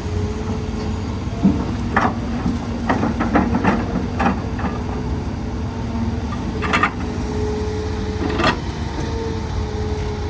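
Excavator's heavy diesel engine running steadily, with a string of sharp metallic clanks and knocks from the working machine, a quick cluster of them a few seconds in and single ones near the end.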